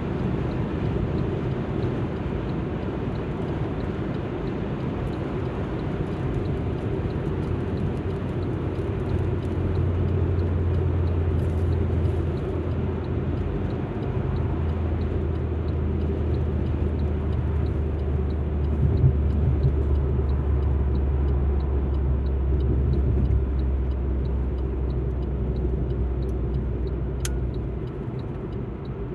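Alfa Romeo MiTo driving, a steady low engine hum over road and tyre noise, the engine note stepping to a new pitch a few times and easing off near the end. A single sharp click comes shortly before the end.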